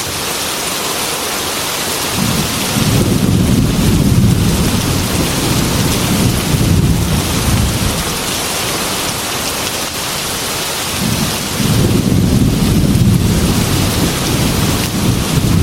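Heavy rain falling on a metal roof in a steady hiss. Two long rolls of thunder rumble low beneath it: the first from about two seconds in, the second starting past the middle and fading near the end.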